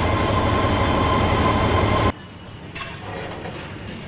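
Trans-Siberian locomotive's machinery running loudly and steadily inside the engine compartment: a heavy low rumble with a steady high-pitched tone over it. It cuts off abruptly about two seconds in, and a much quieter scene follows.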